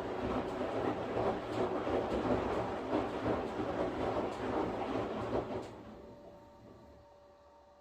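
Washing machine running, its drum churning the wash with a steady rush and irregular knocks. The noise stops about six seconds in, leaving a faint hum.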